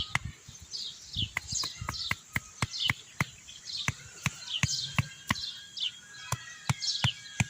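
Small birds chirping, a short falling note repeated about every half second, over a fast, even run of sharp clicks, about three a second.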